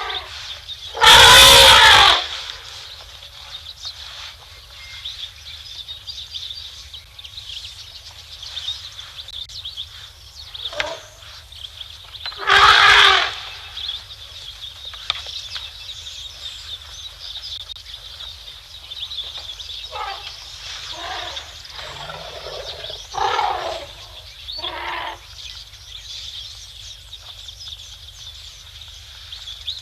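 African elephants trumpeting: two loud blasts of about a second each, one about a second in and one about 13 seconds in. Several shorter, quieter calls follow near the end, over a steady high-pitched background drone.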